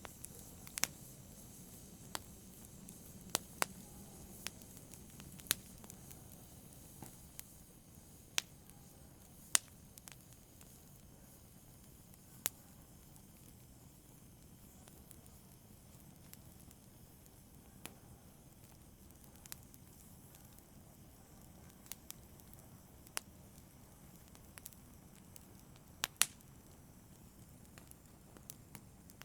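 Wood fire in a fireplace crackling: irregular sharp pops and snaps over a soft low rumble of burning, busier in the first third and sparser after.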